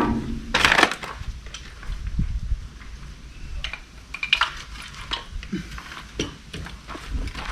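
Metal tools and parts being handled: irregular clinks and knocks at an uneven pace, with a louder knock just under a second in, over a low steady rumble.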